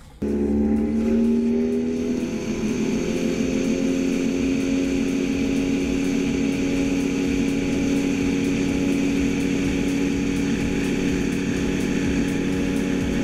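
Motorboat engine running hard; it starts abruptly, rises in pitch over the first couple of seconds, then holds a steady high speed.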